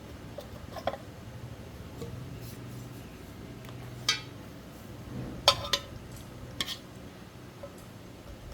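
Scattered metallic clinks and knocks, about five, from metal tools or parts being handled, the loudest a little past the middle, over a faint low hum.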